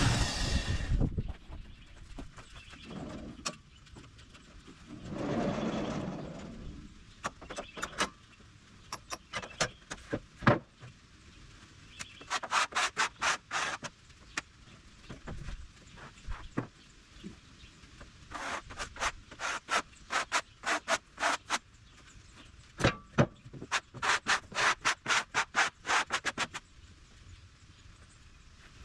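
A small engine dies away about a second in. Then come groups of quick scraping strokes, about four or five a second, in several runs with pauses between.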